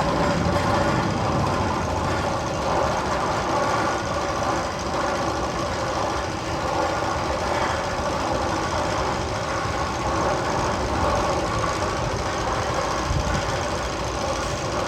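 Steady engine-like mechanical rumble, a sound effect played over the speakers in a roller coaster tunnel.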